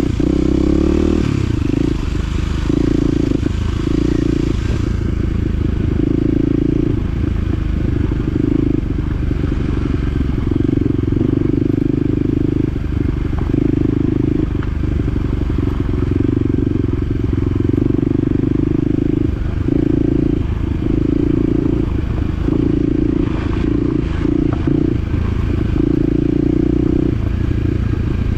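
Side-by-side UTV engine running on a rough trail, its note swelling and dropping every second or two as the throttle is worked on and off.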